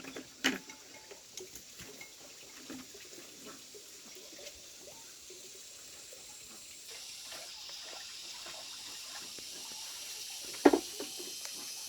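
Dishes being washed under a running tap, with a few sharp clinks of dishes. The running water gets louder about seven seconds in.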